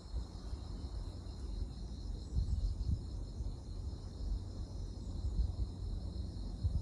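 Insects chirping steadily in a high, finely pulsing band, over an uneven low rumble.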